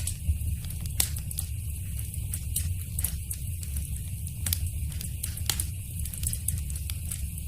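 Wood fire crackling in a fireplace: irregular sharp pops and snaps over a steady low rumble of the flames, with the loudest pops about a second in and near three seconds.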